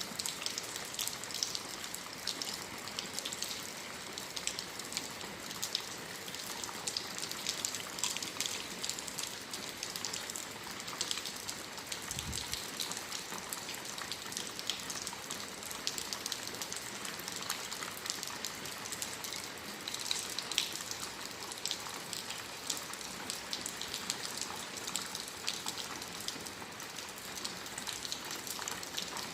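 Steady, fairly heavy rain falling, an even hiss full of small raindrop ticks.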